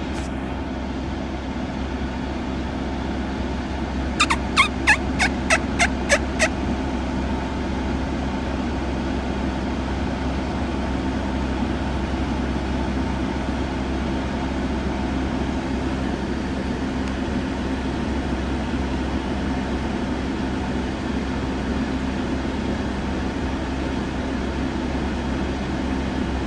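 A wild turkey gobbler gobbles once, about four seconds in: a quick rattling run of about eight notes that falls in pitch. It sounds over a steady low rumble.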